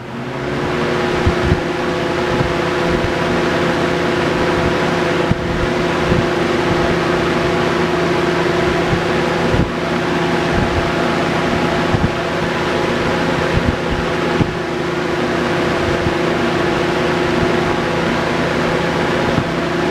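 Lakewood third-generation box fan switched on at high speed: the motor spins up in the first second, then runs steadily, a humming tone over the rush of moving air.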